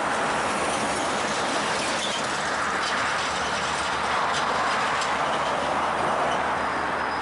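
Freight train rolling on the rails: a steady rush of wheel-on-rail noise with a few faint clicks.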